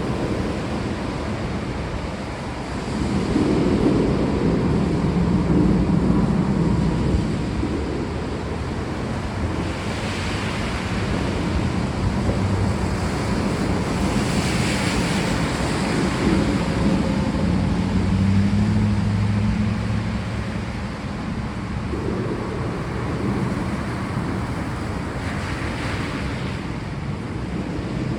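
Steady heavy rain hissing, with low rolling thunder rumbling up a few seconds in and again past the middle.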